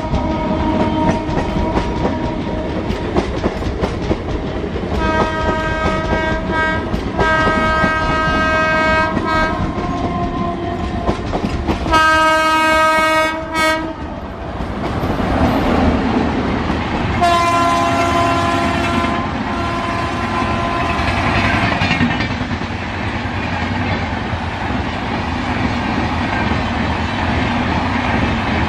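Indian Railways WAP-7 electric locomotive sounding its air horn in several blasts as it approaches, the loudest just as it draws level a little over 12 seconds in. Then the passenger coaches run past with a steady rumble and a clickety-clack over the rail joints.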